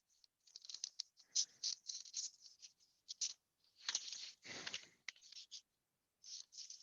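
Paper rustling and crinkling in short, irregular bursts as documents are handled and pulled from an envelope, with a couple of longer, fuller rustles about four and five seconds in.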